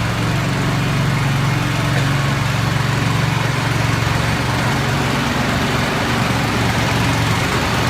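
Engine of a tracked ridging tiller running steadily at an even speed.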